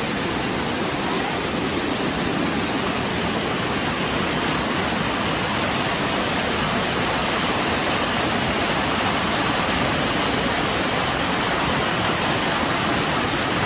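Dunn's River Falls waterfall: a steady, even rush of cascading water that does not change.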